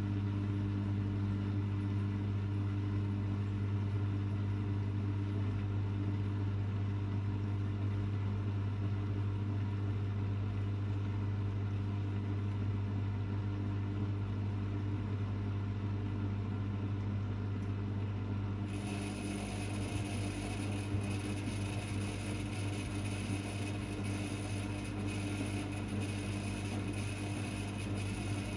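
Privileg 5020 front-loading washing machine running its Easy-Care 40 °C programme, a steady low hum throughout. About two-thirds of the way in a hiss sets in and carries on alongside the hum, with faint irregular ticks.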